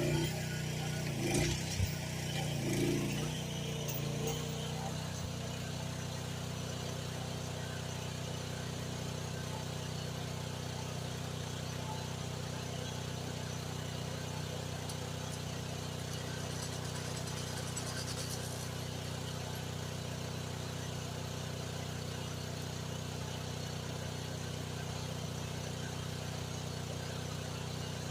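GroundHog KH14G mini excavator's engine running steadily, with a few knocks in the first few seconds.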